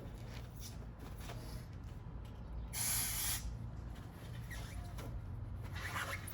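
Aerosol spray can hissing in short bursts while brake parts are cleaned, the longest and loudest burst about three seconds in and lasting under a second, with fainter short hisses around it over a steady low hum.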